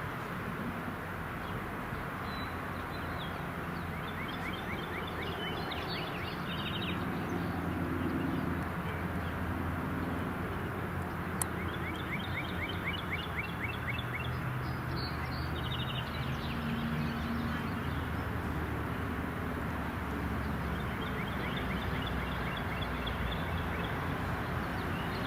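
A songbird singing three trills of rapid repeated notes, each a couple of seconds long, over a steady low rumble.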